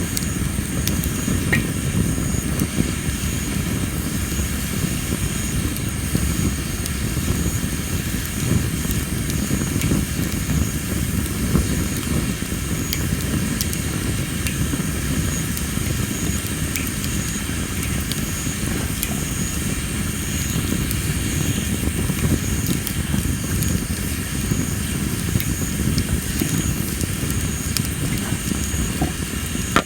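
Tree-of-heaven (ailanthus) wood fire burning with a steady low rush of flame and scattered small crackles. Insects chirp steadily in the background, one with a regular pulsing call.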